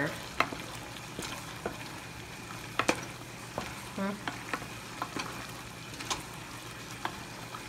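Ground meat and diced vegetables sizzling steadily in a pot while a wooden spoon stirs them, with irregular sharp clicks and scrapes of the spoon against the pan.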